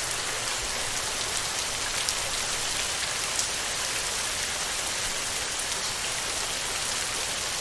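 Heavy rain falling steadily on a tin roof, with a couple of sharper drop hits standing out a few seconds in.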